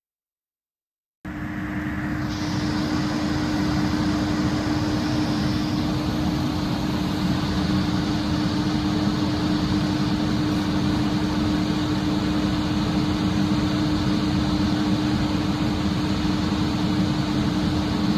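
Sound cuts in abruptly about a second in: a fire engine's motor running steadily, a constant hum over a wide wash of mechanical noise.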